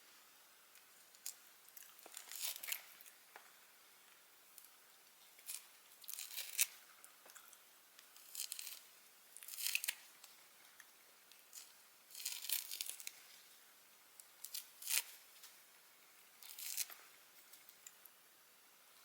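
Short bursts of crinkling and tearing, about ten of them, a second or two apart, with quiet between.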